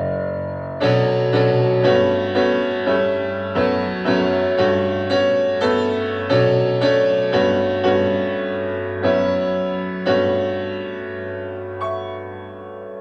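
Piano-like keyboard playing a slow run of chords, struck about twice a second, each ringing and fading. The strikes thin out and die away near the end.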